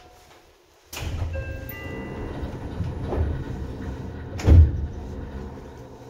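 Seibu 2000 series electric train heard from inside the car, directly above its line breaker. About a second in, a loud low rumble of running gear starts suddenly, with a few steady tones for a moment, and a loud clunk comes about four and a half seconds in.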